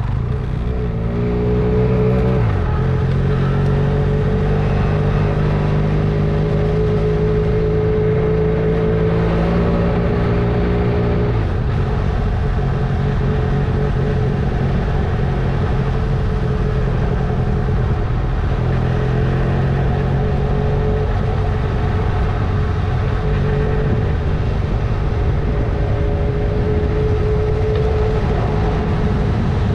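Honda CMX 500 Rebel's parallel-twin engine running under way. Its pitch climbs and then drops at a gear change about two seconds in, and shifts again near the middle.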